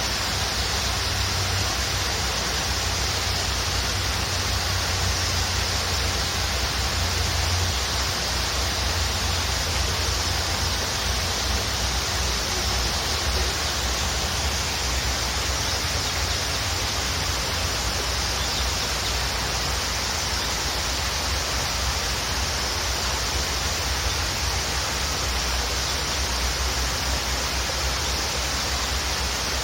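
Waterfall pouring steadily: an unbroken rush of falling water with a low rumble underneath, holding the same level throughout.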